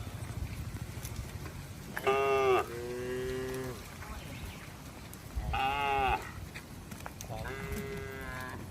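Cattle mooing: three high-pitched calls about two, five and a half, and seven and a half seconds in. The first two are the loudest, and the first trails off into a lower held note.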